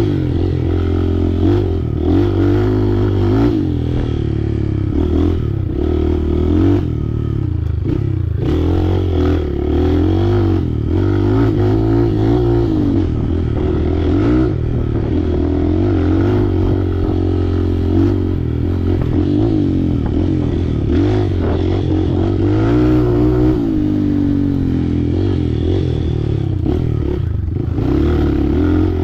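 Off-road vehicle engine running on a rough trail, its pitch rising and falling continually as the throttle is worked. Short knocks and rattles are heard throughout.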